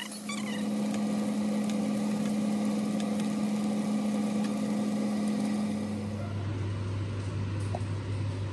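Tofu cubes sizzling in oil in a nonstick frying pan under a steady low electrical hum from a kitchen appliance. About six seconds in, the hum drops to a lower pitch.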